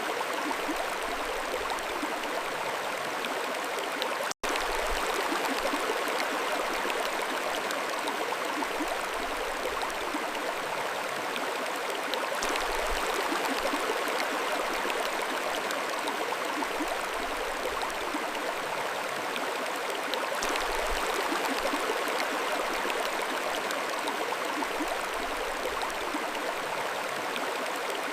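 Mountain stream flowing: a steady, even rush of running water, with a split-second dropout to silence about four seconds in.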